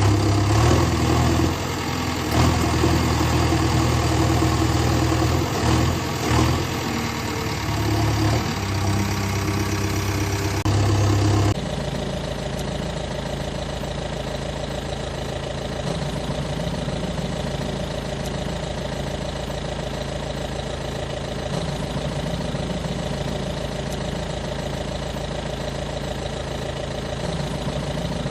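Engine running, its pitch and level shifting for about the first eleven seconds, then idling steadily after an abrupt change.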